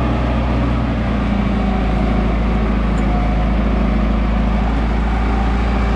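Off-road vehicle's engine running steadily with a constant low hum and rumble while the vehicle drives over a bumpy dirt track.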